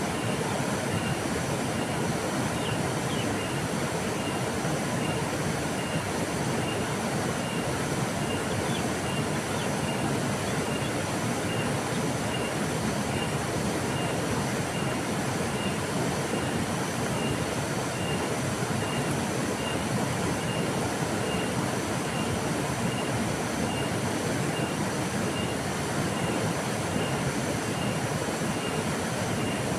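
Flowing river: a steady, even rush of water. A faint high chirp repeats a little more than once a second over it.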